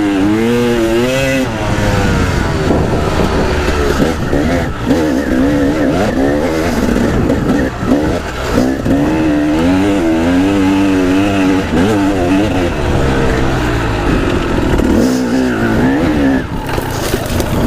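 Dirt bike engine ridden over rough ground, its pitch rising and falling over and over as the throttle is worked, with scattered knocks from the bumps.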